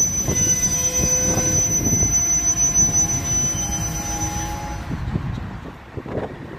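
Freight train coal cars rolling past, with repeated wheel clicks and a high steady wheel squeal that cuts off about five seconds in; the whole sound gets quieter near the end.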